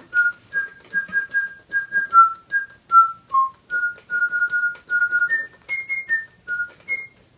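Spin Master Digibirds electronic toy bird playing one of its songs: a whistled melody of short, pure notes that step up and down, a few notes a second.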